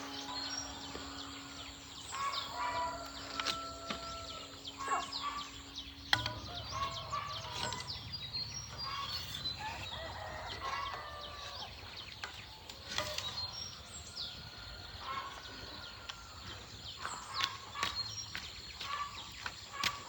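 Birds chirping over outdoor ambience, with scattered taps and clicks. A low steady hum stops about six seconds in.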